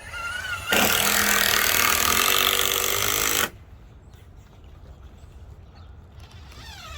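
Power drill running at a steady speed for about three seconds, starting under a second in and stopping abruptly.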